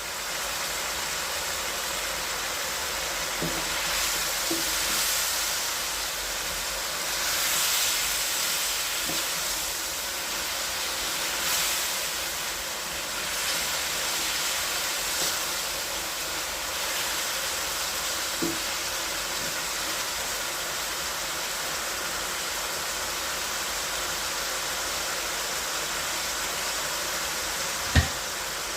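Food sizzling in a cooking pan: a steady hiss that swells now and then, with a few faint ticks and one sharp knock near the end.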